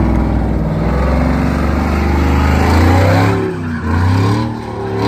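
Car engine revving hard at high revs for a burnout attempt. The revs climb slowly for about three seconds, then drop and pick up again twice near the end.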